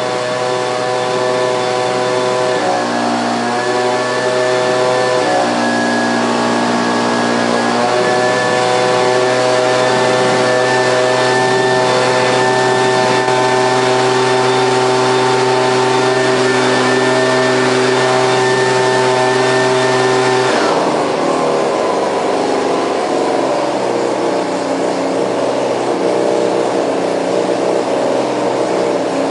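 Gas leaf blower engine running shortly after a cold start, holding a steady high speed with a few brief dips in pitch. About 21 seconds in it drops to a lower, rougher idle.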